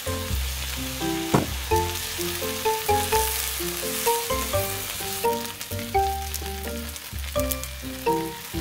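Kimchi fried rice sizzling in a frying pan while a metal spoon stirs and scrapes it, with one sharper knock about a second and a half in. Background music with a melody and bass plays throughout.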